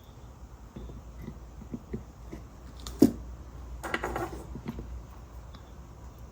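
Small objects handled on a work surface: light taps, one sharp knock about three seconds in, then a brief scraping rustle.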